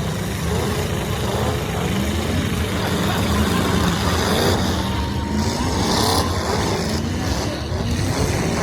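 Demolition derby trucks' engines running and revving together, several pitches rising and falling over one another in a loud, steady din.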